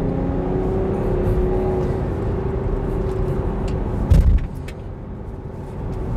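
BMW X5's three-litre diesel engine running steadily while the car is driven, heard with low road rumble. A single heavy thump comes about four seconds in, after which the noise is quieter.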